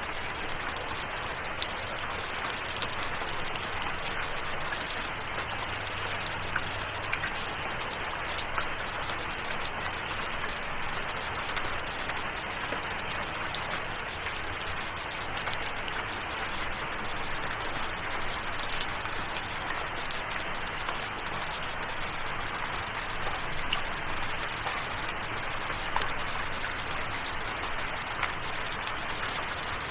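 Steady rain falling, with scattered sharp hits of individual drops throughout.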